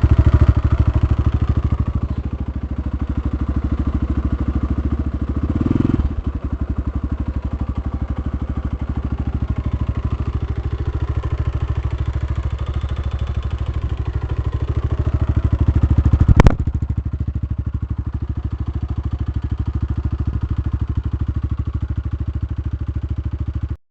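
Single-cylinder 250 cc dirt bike engine running steadily with a rapid, even beat. A single sharp knock about sixteen seconds in.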